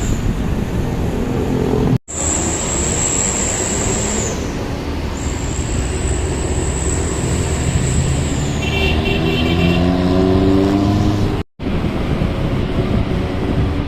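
Truck engines running loud on the road, one climbing in pitch as it speeds up about two-thirds of the way through, with a thin high whine over the top and a short high beeping near the middle. The sound cuts out abruptly twice.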